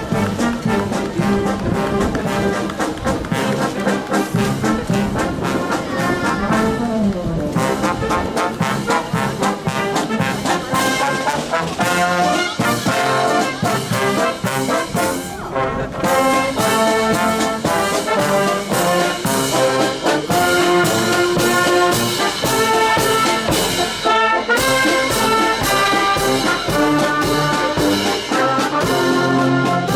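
Marching brass band playing a tune, trumpets and trombones over a steady drum beat.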